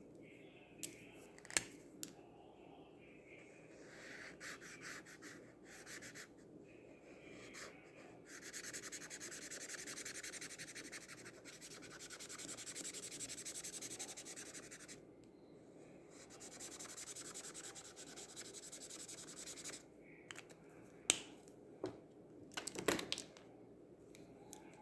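Acrylic paint marker nib scratching and rubbing on paper in a fast back-and-forth while colouring in, loudest for several seconds in the middle. A few sharp clicks come near the start and again near the end.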